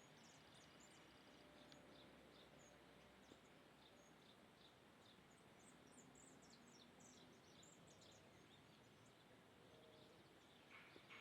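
Faint, scattered high chirps of small birds over a quiet background hiss, with a louder run of rapid calls starting near the end.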